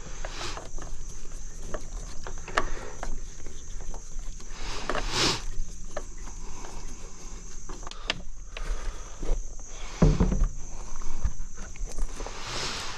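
Steady high-pitched insect trilling, with scattered knocks, scrapes and footsteps and one heavier low thump about ten seconds in.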